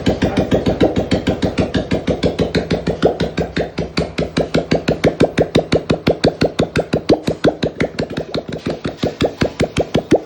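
Freshly rebuilt Royal Enfield single-cylinder engine idling, with an even beat of about six to seven pulses a second.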